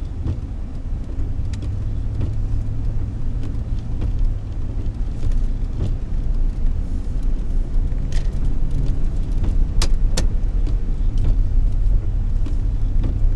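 Steady low rumble of a car's engine and tyres heard inside the cabin while driving on a snow-covered road, growing slightly louder, with a few sharp clicks scattered through it.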